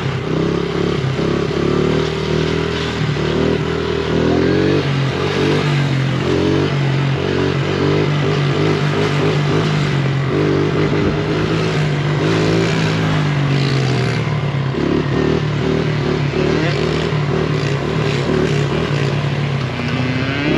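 Honda CRF70 pit bike's small four-stroke single-cylinder engine running while ridden, its pitch rising and falling a little with the throttle.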